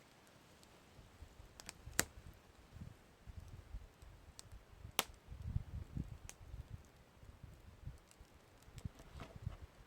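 Campfire crackling, with scattered sharp pops, the loudest about two and five seconds in, over a faint low rumble that comes and goes.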